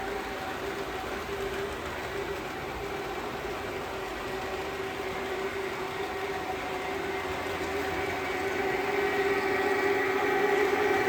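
HO-scale model trains, KATO EF65 and EF510 electric locomotives, running along the layout track: a steady whine of their small electric motors over the rolling of wheels on rails. It grows louder over the last few seconds.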